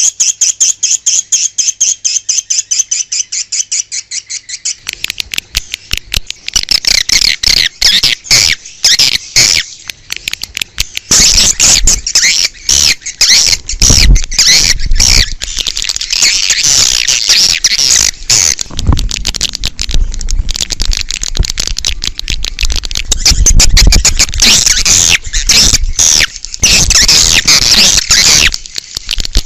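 Swiftlet calls from a lure recording used to call swiftlets. A fast, even train of chirps, about five a second, runs for the first five seconds. It then gives way to a dense twittering of many overlapping calls.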